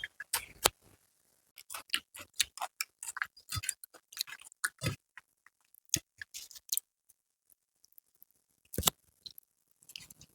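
Close-miked chewing and mouth sounds of a person eating: quick irregular wet clicks and smacks, stopping for about a second and a half near the end before one louder smack.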